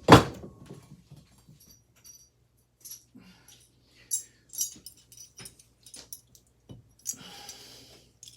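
Metal ceiling-fan parts being knocked and handled: a sharp knock right at the start, then scattered light clinks and taps, and a short scraping rustle near the end.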